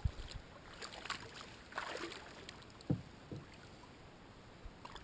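Quiet water sounds and light knocks around a kayak while a hooked catfish is being played, with a short splash-like swish about two seconds in and a dull thump about three seconds in.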